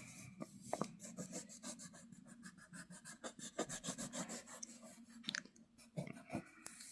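Coloured pencil shading on paper: faint, quick back-and-forth scratching strokes.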